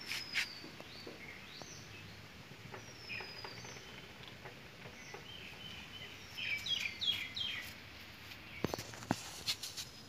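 Faint bird calls: short high whistled notes gliding downward, then a quick cluster of chirps about two-thirds through. A few sharp clicks come near the start and again near the end.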